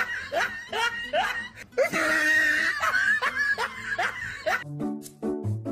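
A person laughing in quick, repeated bursts.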